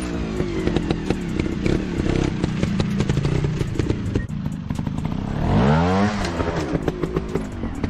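Motorcycle engine running, revving up sharply once about five and a half seconds in, with clattering and knocking throughout.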